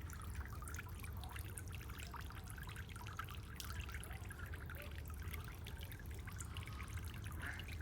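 Water trickling and dripping with many small splashes, as from a wet cast net being handled at the river, over a steady low hum.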